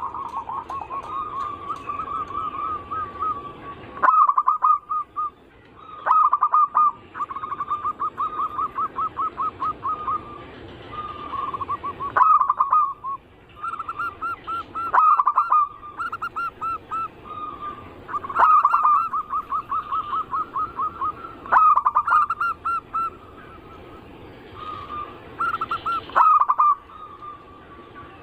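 Zebra doves (perkutut) cooing: phrases that open with a loud note and run into a quick series of short, even coos, repeating every few seconds.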